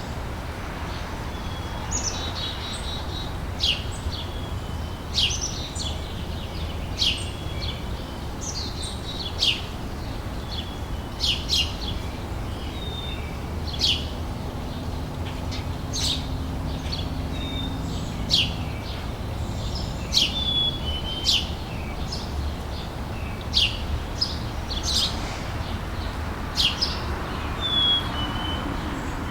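Outdoor summer ambience: birds giving short, sharp chirps every second or two over a steady low background rumble.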